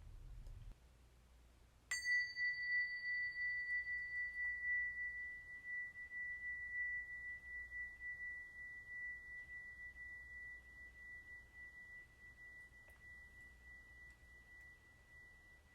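A small metal bell or chime struck once about two seconds in, ringing one high tone with a slow wobble in loudness that fades gradually over more than ten seconds.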